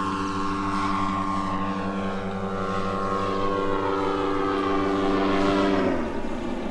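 Engines of a quarter-scale Beech 18 model airplane in flight: a steady propeller drone that swells and then drops sharply in pitch near the end.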